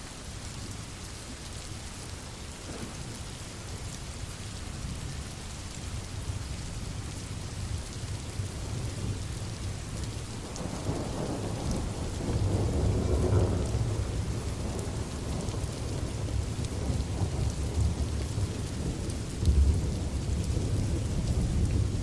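Steady rain with a long roll of thunder building up about halfway through, and a sharper, louder thunderclap near the end.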